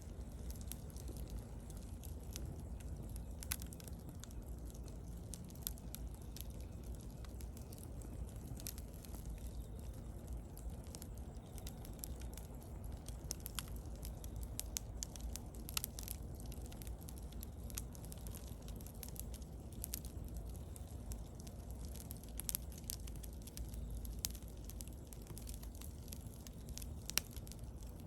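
Wood bonfire burning, with scattered sharp crackles and pops over a steady low rumble.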